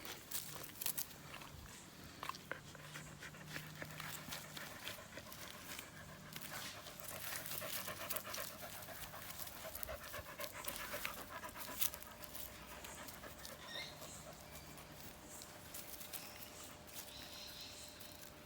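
A dog panting rapidly and softly, out of breath, in a fast even rhythm.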